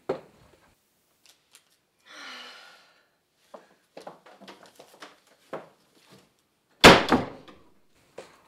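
A wooden door being opened and shut: small clicks and knocks of its latch, then the door slammed shut about seven seconds in, the loudest sound. A short breathy sound about two seconds in.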